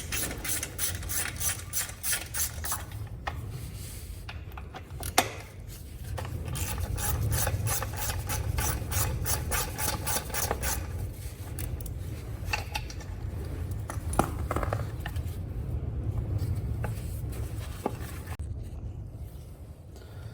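Small screws on a motorcycle chain cover being undone with a hand tool: a fast run of ratchet-like clicking for the first few seconds, then scattered clicks and scraping over a low rumble.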